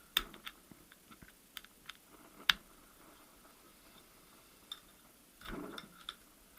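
Small metal gearbox parts clicking and tapping as a retaining clip is fitted to a bearing in the housing of a VAZ 2108–2115 manual gearbox: a handful of scattered sharp clicks, the sharpest about two and a half seconds in.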